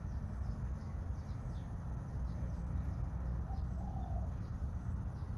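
Faint birds calling: a run of short, high, falling chirps about twice a second, with a brief low coo a little past the middle, over a steady low rumble.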